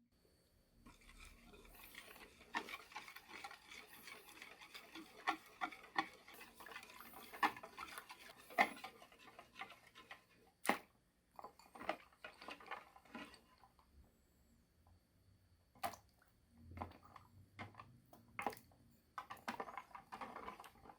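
A utensil stirring a chocolate milk mixture in a container, with quick clicks and scrapes against the sides for about the first ten seconds, then scattered separate knocks.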